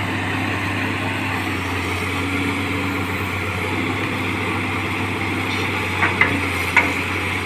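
Caterpillar excavator's diesel engine running steadily as the machine works to climb out of soft mud, with three short sharp clicks about six to seven seconds in.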